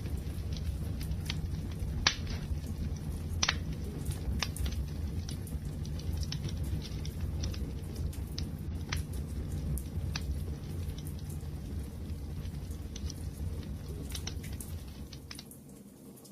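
Wood fire crackling, with irregular sharp pops and snaps over a low steady rumble of the flames. The sound fades down briefly near the end.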